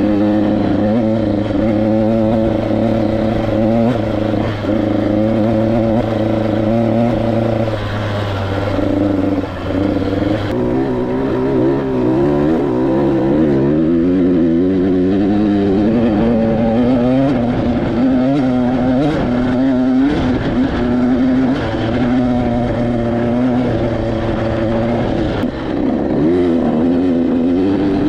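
KTM 85 SX two-stroke single-cylinder dirt bike engine running under way. The engine pitch holds fairly even for the first ten seconds or so, then rises and falls repeatedly as the throttle is worked.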